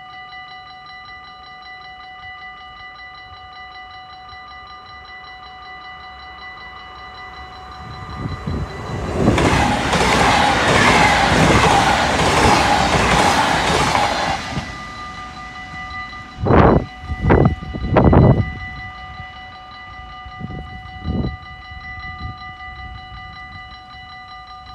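Level-crossing warning bells ringing steadily while a double-deck electric passenger train passes at speed; its rush over the rails lasts about six seconds and is loudest a third of the way in. Three loud short bursts of sound follow about a second apart, with two fainter ones a little later, and the bells ring on.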